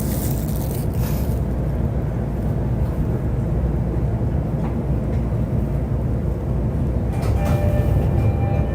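Interior running noise of an E531-series electric multiple-unit train: a steady low rumble of wheels and bogies on the rails. A hiss fades out in the first second or so, and steady whining tones come in about seven seconds in.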